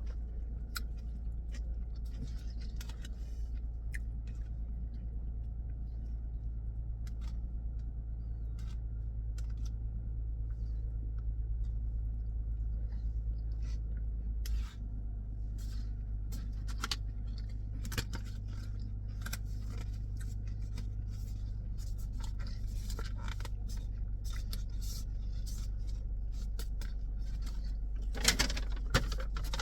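Steady low hum of a car heard from inside the cabin, with small clicks and light rattles scattered through it. The hum shifts slightly about halfway through, and the clicking grows busier near the end.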